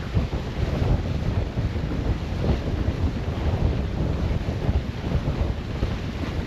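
Wind buffeting the microphone: a continuous, uneven low rumble with no distinct events.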